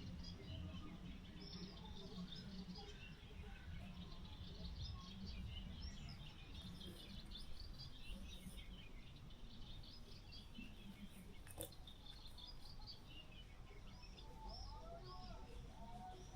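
Many small birds chirping and twittering continuously over a steady low rumble, with one sharp click partway through. A set of lower-pitched calls starts near the end.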